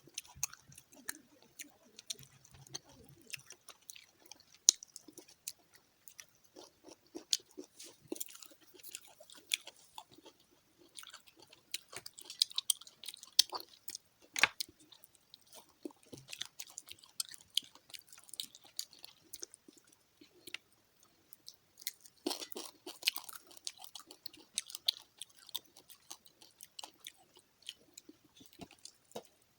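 A person chewing and biting fried fish close to the microphone: many quick, irregular crunches and wet mouth clicks.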